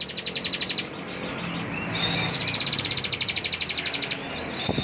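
Bar-winged prinia (ciblek) singing its rapid drilling trill ("ngebren"): high notes repeated about twenty times a second. The trill breaks off just under a second in and resumes about two seconds in for another two seconds. A short knock comes near the end.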